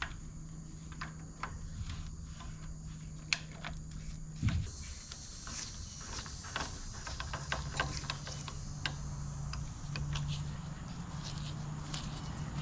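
Hand tools working the bolts of a DeSoto Hemi V8 engine by hand: scattered metallic clicks and clinks of a wrench and socket, thickest in the middle. Under them a low steady hum drops out about four seconds in and returns a few seconds later.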